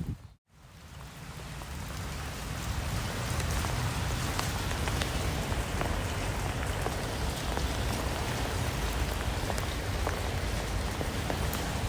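Steady rain with scattered sharp ticks of single drops striking a surface. It cuts out briefly about half a second in, then fades back in and holds steady.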